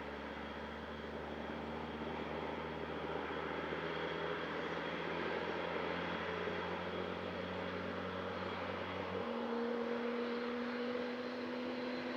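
Airliner engines running: a steady rumble and hiss with a whine. About nine seconds in, the low hum stops abruptly and a higher tone takes over, slowly rising.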